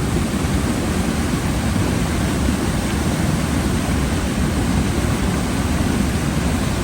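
Steady rushing of a waterfall close by, a loud, even roar with no breaks.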